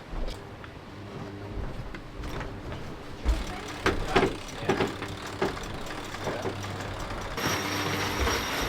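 Onboard noise of an IMOCA racing yacht: a steady mechanical hum through the hull with a series of sharp knocks and clunks from deck gear, then a loud rushing hiss starting near the end.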